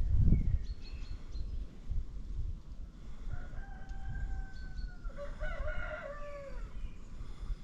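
Rooster crowing once, a single long call of about three seconds that holds steady and then breaks and falls away at the end. Faint high chirps of small birds come about a second in, over a low rumble of wind.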